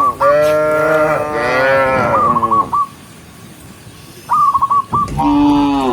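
Cows mooing: one long, loud moo for almost the first three seconds, a quieter gap, then another moo starting near the end. A short high chirping call comes in twice between them.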